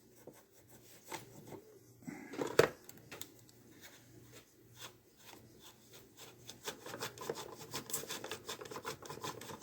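A T15 Torx screwdriver backing a screw out of the plastic housing of a robot vacuum's wheel motor: scratchy rubbing and light clicks, with a louder knock about two and a half seconds in. The clicking grows dense and rapid in the second half.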